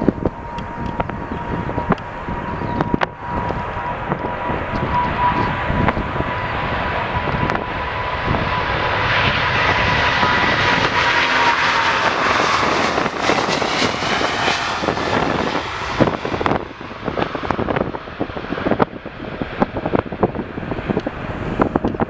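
Jet airliner passing close by: a steady engine whine and a rush of engine noise that swells to a peak about halfway through and then fades away, with wind buffeting the microphone.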